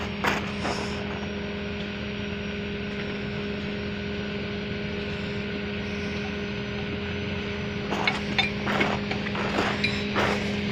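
A truck engine running steadily with a constant low hum. Several short knocks and clatters come in about eight seconds in.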